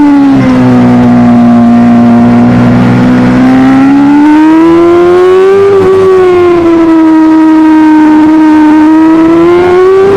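Superbike engine running hard and loud, its note dropping just after the start, holding low, climbing to a peak about six seconds in, easing off, then rising again near the end.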